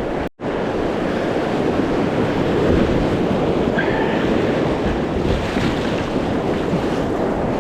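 Steady rush of whitewater from a creek rapid, with wind buffeting the microphone. The sound drops out briefly about a third of a second in.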